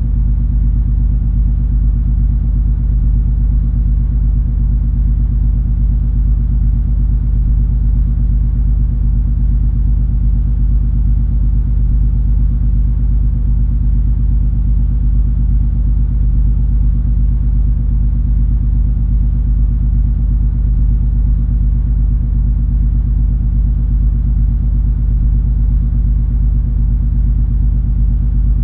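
Cruise ferry MS Color Fantasy's engines heard on board: a loud, steady low rumble with a deep hum, unchanging throughout.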